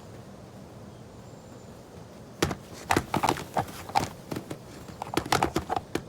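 Bull elk antlers clashing as two males wrestle: a low background at first, then from about two and a half seconds in an irregular run of sharp knocks and clacks of bone on bone.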